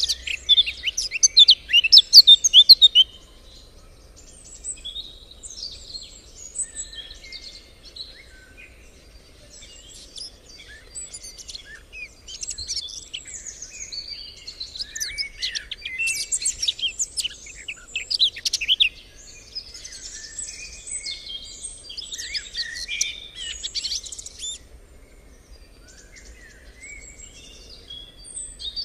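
Several songbirds singing and chirping at once, their quick, overlapping calls and trills loudest in a burst during the first three seconds, then continuing more softly.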